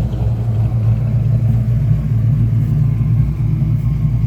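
Fox-body Ford Mustang engine running steadily and evenly, its misfire cured by a new set of fuel injectors.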